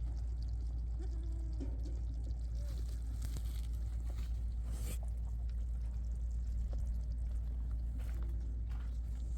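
Faint bleating of livestock over a steady low rumble, with a brief rustle about halfway through.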